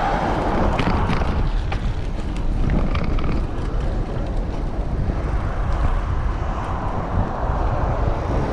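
Wind rushing over the microphone of a moving bicycle, with tyre and road noise. A run of light, irregular clicks and rattles sounds in the first few seconds.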